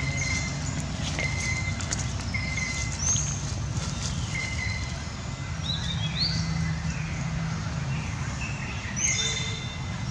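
Wild birds calling: a short note repeated about once a second, with a few higher rising-and-falling chirps, over a low steady hum.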